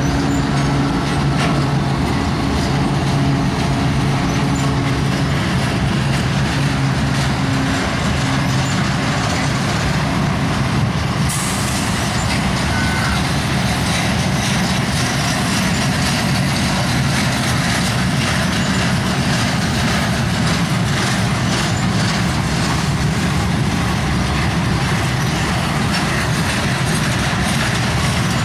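Slow-moving freight train of flat cars loaded with slab steel rolling past, a steady rolling noise of wheels on rail. The low hum of the departing CSX diesel locomotives is heard under it for the first ten seconds or so, then fades out.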